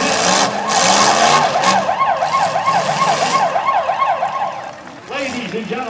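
Electronic siren at a demolition derby sounding a fast rising-and-falling yelp, about three or four sweeps a second, over running car engines. The siren cuts off near the end.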